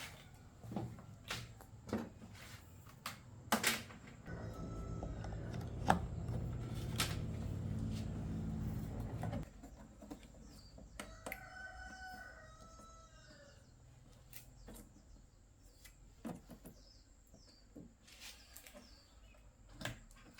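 Scattered clicks and taps, with a low hum for several seconds that cuts off suddenly near the middle, then a bird call of a second or two about eleven seconds in.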